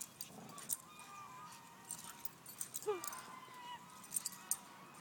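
Puppies tugging on a leash: faint wavering whines, one sliding down in pitch about three seconds in, with light metallic jingling and clicks.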